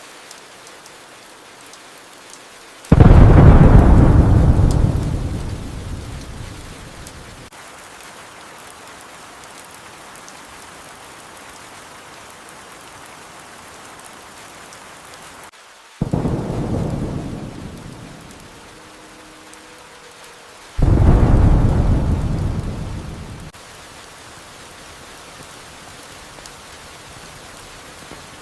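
Steady rain with three claps of thunder, about three, sixteen and twenty-one seconds in. Each starts suddenly and rumbles away over a few seconds, and the first is the loudest.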